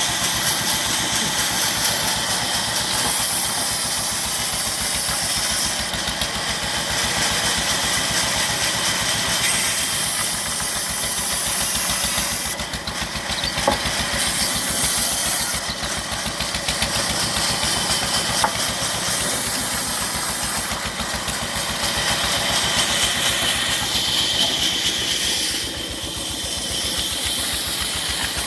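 Diesel engine running steadily with an even, rapid firing beat, with one sharp tick about halfway through.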